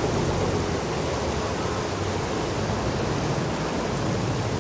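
Canal passenger boat under way: a steady, even rush of engine and water noise, with the boat's engine running beneath it.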